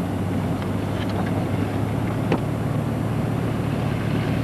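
Steady engine and road noise of a minivan driving, heard from inside the cabin, with a low steady hum and a faint tick about two seconds in.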